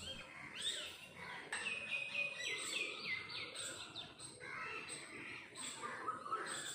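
Birds chirping, with a quick run of short, falling notes in the middle and a held note starting near the end.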